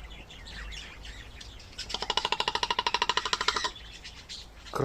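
Common raven giving a fast pulsed call, a run of about eleven notes a second lasting nearly two seconds, starting about two seconds in.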